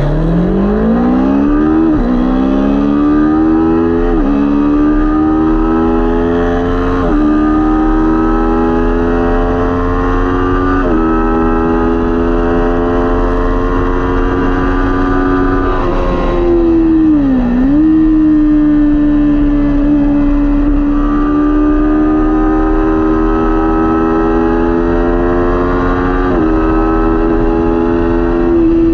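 Kawasaki Ninja 400 parallel-twin engine at full throttle, heard onboard. It revs up hard and drops in pitch at each upshift, about a second into each of several gears early on and again twice in the second half. Around the middle the revs dip and recover briefly. Wind rumble runs underneath.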